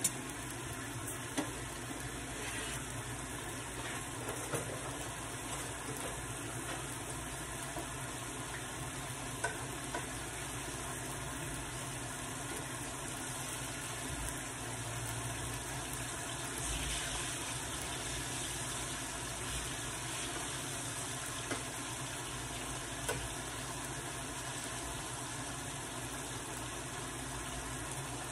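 Chicken fajitas and ripe plantain slices sizzling in frying pans on a gas stove. The sizzle is steady and swells briefly a little past halfway, with a few short taps scattered through it.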